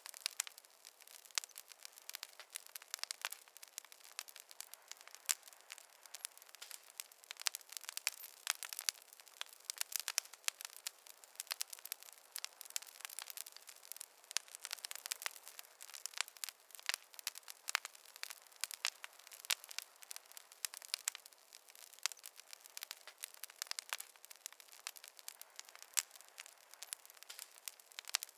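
Wood campfire crackling, with many small irregular sharp pops and snaps several times a second.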